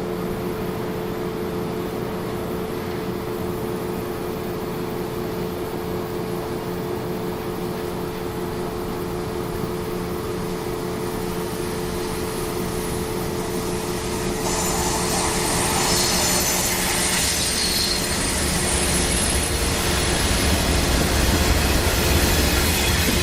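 BNSF diesel freight train drawing near: a steady low diesel hum with a few held tones, then about halfway through a louder rush of wheel-on-rail noise with high hissing squeal, and a deep rumble building near the end as the train arrives.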